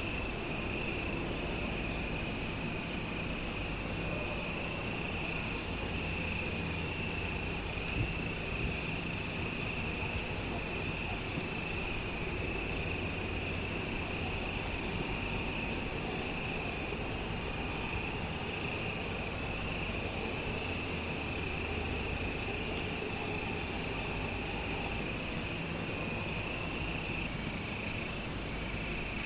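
A dense chorus of insects, likely crickets, chirping steadily in several high shrill tones, the highest pulsing evenly, over a low steady rumble.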